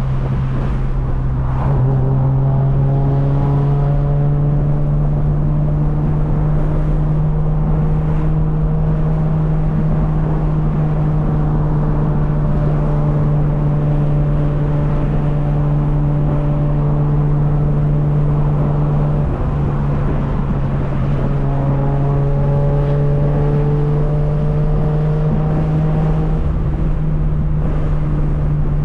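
Turbocharged BMW E36 with an M50 straight-six driving at moderate, steady speed: the engine note climbs slowly as it gains speed, eases off briefly about two-thirds of the way through, then climbs again, over a steady low drone.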